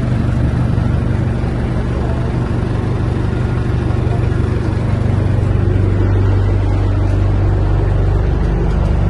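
A canal boat's engine running steadily at low cruising speed, a constant low hum.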